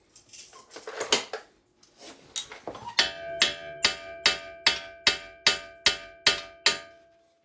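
Hammer striking the steel front steering knuckle to knock it free: a few light knocks, then about ten evenly spaced ringing metal strikes, roughly two or three a second.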